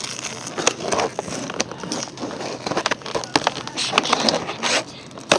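Plastic toy packaging crinkling and crackling with irregular sharp clicks as it is handled and pulled at by hand to get it open.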